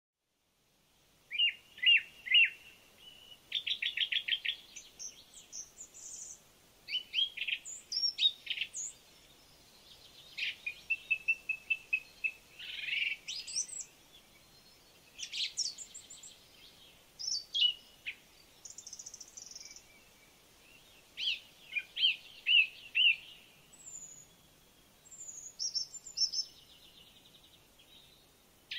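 Songbirds singing: short, varied phrases of chirps, rapid trills and whistles, one after another with brief pauses between them.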